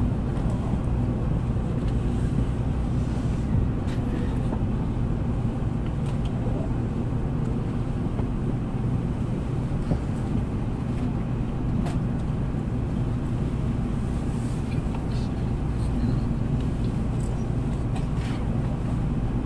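Cabin noise inside an N700 series Shinkansen train on the move: a steady low rumble and hum, with a few faint clicks.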